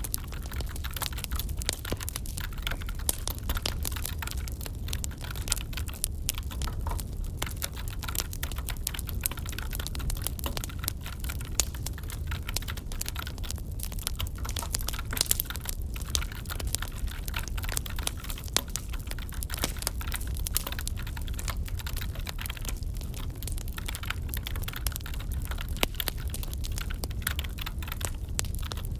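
Wood fire crackling in a fireplace, with dense irregular snaps over a steady low rumble, layered with continuous computer keyboard typing.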